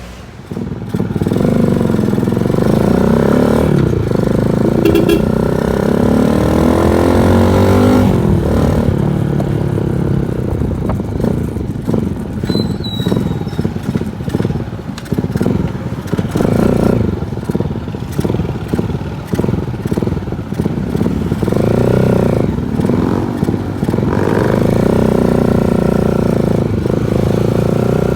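Honda TMX 155 single-cylinder four-stroke engine with an aftermarket SC Project muffler, revving up and down while riding, its exhaust note rising and falling in pitch. As the throttle closes on deceleration there is irregular popping backfire from the pipe.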